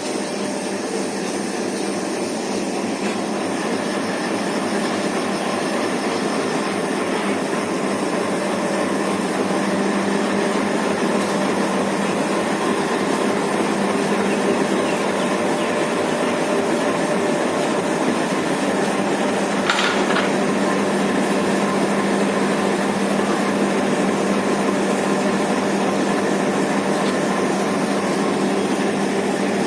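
Diesel locomotive engine running with a steady hum, growing a little louder over the first ten seconds, with one brief higher-pitched squeal or hiss about twenty seconds in.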